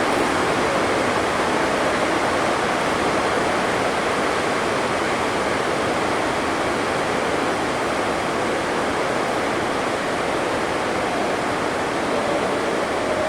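Heavy rain falling on the sports hall's roof: a loud, steady rushing noise with no breaks.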